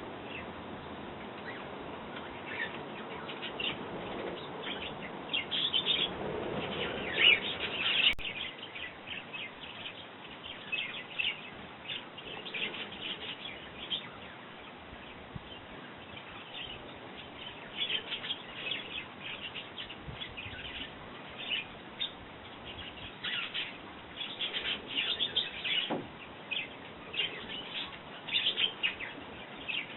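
Small garden birds chirping in short, frequent calls, sparrows and robins among them, with a single sharp click about eight seconds in.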